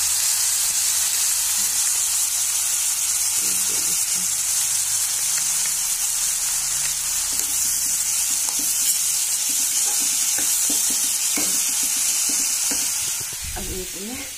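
Sliced vegetables with turmeric sizzling in hot oil in a kadai, with a metal spoon scraping and clicking against the pan as they are stirred. The sizzle drops away about a second before the end.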